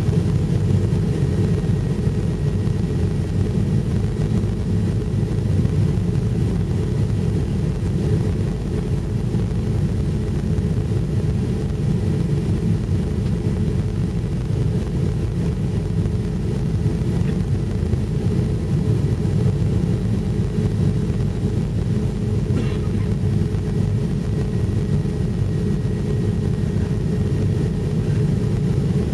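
Steady low rumble of an airliner's engines and airflow, heard from inside the passenger cabin in flight, with a single faint click about two-thirds of the way through.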